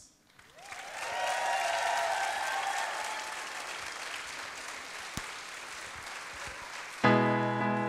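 Wedding guests applauding, building up over the first second and holding steady. About seven seconds in, a piano comes in with loud chords.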